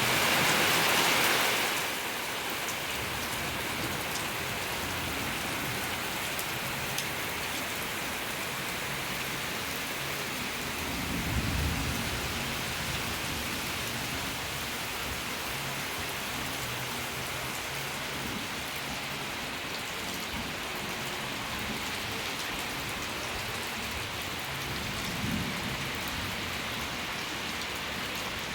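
Steady heavy rain falling and pattering on surfaces, a continuous even hiss that is louder for the first couple of seconds. A brief low rumble comes about eleven seconds in and a fainter one near twenty-five seconds.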